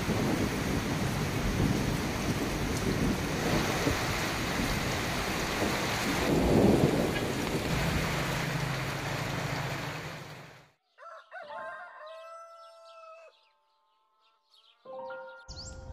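Heavy rain with thunder rumbling, swelling loudest about six to seven seconds in and then cutting off abruptly a little after ten seconds. A rooster then crows, and music comes in just before the end.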